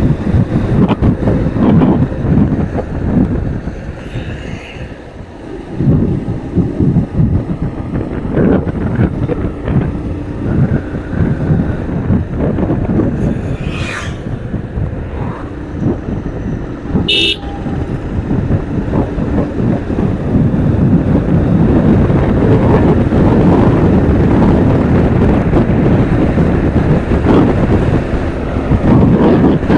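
Wind rushing over the microphone and road traffic during a motorcycle ride, getting louder about two-thirds of the way through. A vehicle horn gives a short toot a little past the middle.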